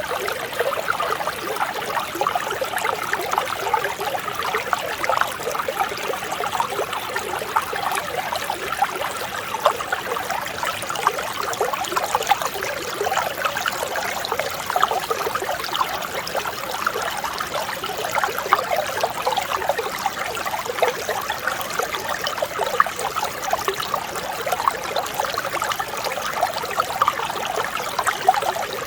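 Mountain stream flowing over rocks: a steady, gentle babble of trickling water with constant small splashes.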